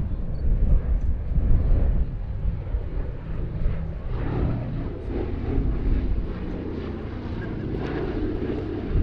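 Boeing B-17G Flying Fortress's four Wright R-1820 Cyclone radial engines droning steadily as the bomber flies its display.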